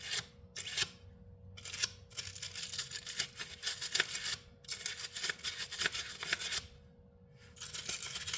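Rubbing and scraping strokes by hand, in irregular runs with two short pauses, over a faint steady hum.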